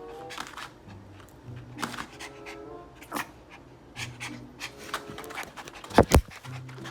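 A poodle panting, with a short loud thump about six seconds in.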